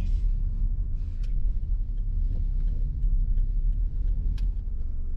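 A vehicle running with a steady low rumble, with a few faint light ticks on top.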